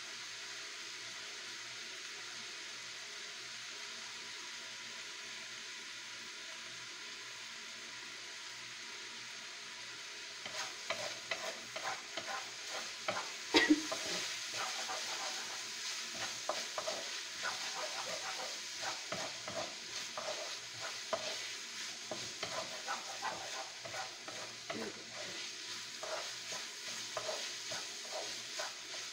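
Minced meat frying with garlic and onion in oil in a wok, sizzling steadily. About ten seconds in, a wooden spatula starts stirring and scraping the pan in quick irregular strokes, with one sharp knock against the wok a few seconds later.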